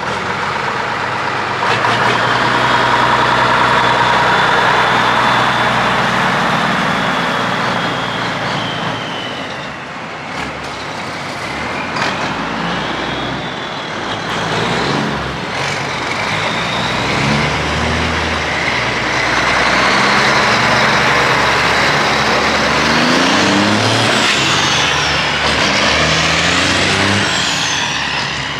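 Old Mack diesel truck engine revving and pulling away, its pitch climbing and dropping several times as it is shifted up through the gears of a manual gearbox without a clutch brake.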